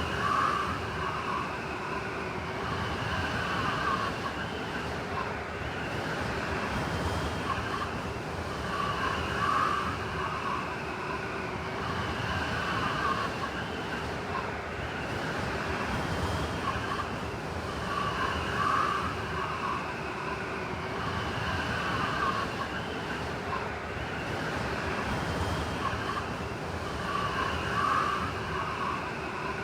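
Blizzard wind howling steadily, with whistling gusts that swell about every nine seconds.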